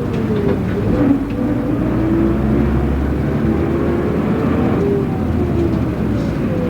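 A route bus running, heard from inside the cabin: a steady engine and road rumble, with a whine that falls in pitch twice, once near the start and again near the end.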